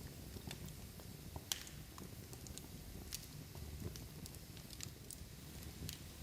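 Large log fire burning in a fireplace: irregular sharp crackles and pops over a low, steady rumble of flame, with a louder pop about a second and a half in and another about three seconds in.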